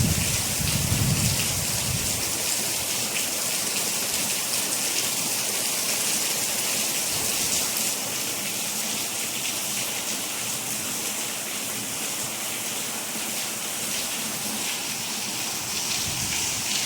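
Steady rain falling, a dense even hiss with many small drop ticks. A low rumble fades away in the first couple of seconds and swells back near the end.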